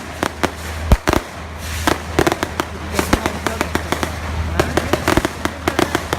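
Fireworks and firecrackers going off: an irregular run of sharp bangs and cracks, some in quick clusters, the loudest just under a second in.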